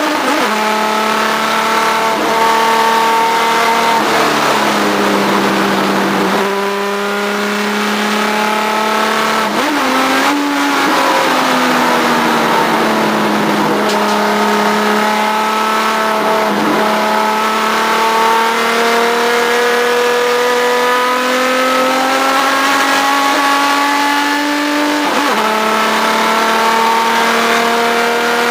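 Race car engine heard on board, its pitch climbing slowly through long pulls and dropping abruptly four times as the revs fall.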